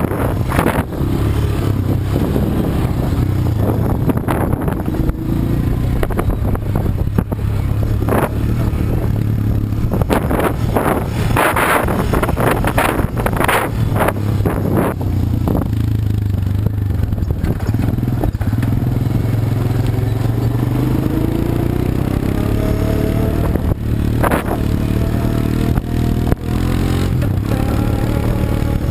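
ATV engine running steadily under load, with bursts of clatter and scraping knocks from about eight to sixteen seconds in. From about twenty seconds in, the engine note climbs slowly as it speeds up.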